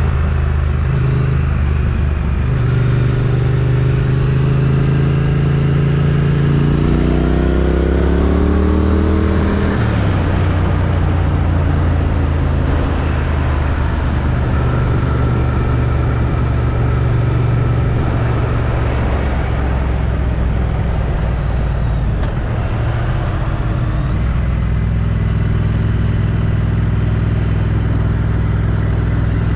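Triumph Street Twin's 900 cc parallel-twin engine through its stock exhaust, on the move. It pulls with a rising pitch from about six seconds in, drops sharply at a gear change about ten seconds in, then runs steady.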